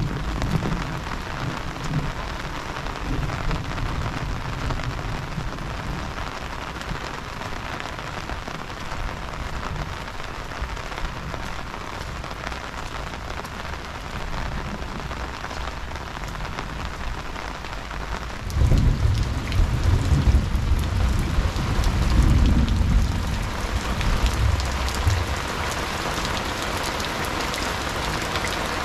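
Heavy rain pouring steadily. About two-thirds of the way in, a deep low rumble swells up for several seconds and then fades, leaving the rain.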